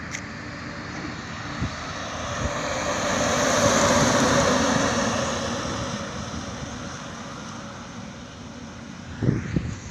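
A truck passing on the highway: its engine and tyre noise swell to a peak about four seconds in, then fade away. A few low thumps follow near the end.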